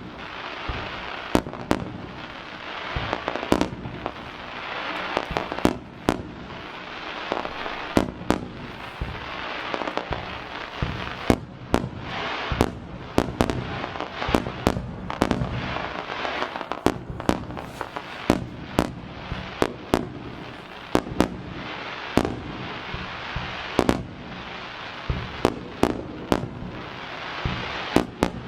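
Aerial fireworks shells bursting in quick succession: sharp bangs, sometimes several within a second, over a continuous crackle.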